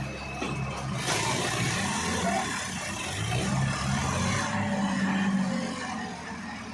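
Tractor diesel engine running hard under load. Its pitch sags about a second in and climbs back a few seconds later, with a rushing noise over it.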